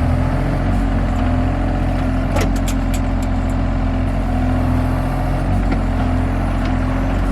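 John Deere 35G mini excavator's diesel engine running steadily, with a quick cluster of sharp knocks about two and a half to three and a half seconds in as the bucket is smacked down to pound loose dirt firm.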